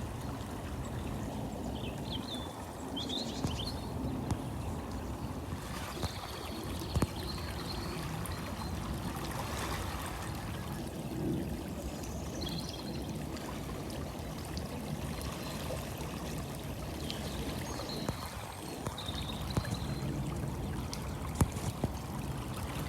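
Steady rush of river water flowing, with a few short high chirps and small clicks over it.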